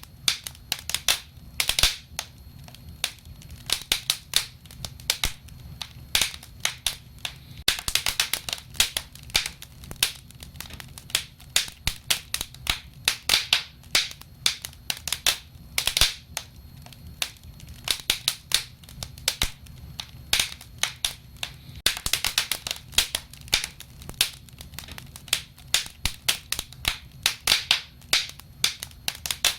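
Wood fire crackling, with many irregular sharp pops and snaps, several a second, over a steady low rumble.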